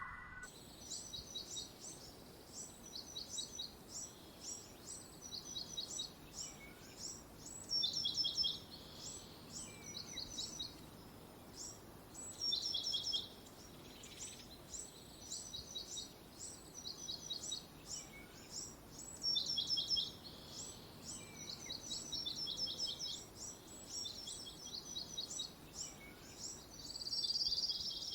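Small birds chirping: rapid series of short, high-pitched chirps in repeated phrases, several birds overlapping, with louder bursts every few seconds over a faint background hiss.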